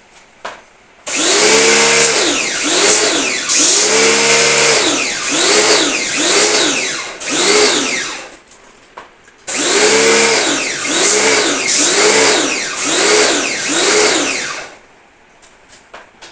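Electric pressure washer (jet pump) used for wet-servicing an air conditioner, running in two long spells with a short stop between. Its motor pitch rises and falls about once a second under a loud hiss.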